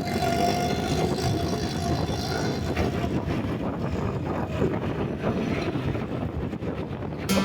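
Motorcycle engine running, a rough steady noise.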